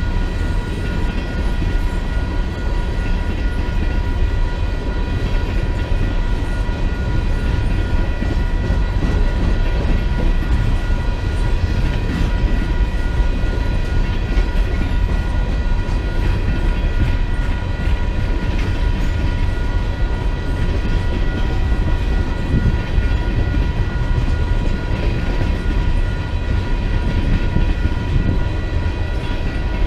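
A freight train rolling past: a steady, heavy rumble of railcars on the track, with a few thin steady high tones above it.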